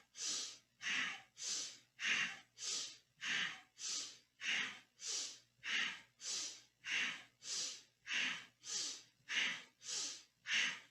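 A person's deep, forceful breathing through the nose in a quick, even rhythm, a rush of air nearly twice a second, inhales and exhales alternating with each twist of a yogic spinal-twist breathing exercise. It stops abruptly at the end.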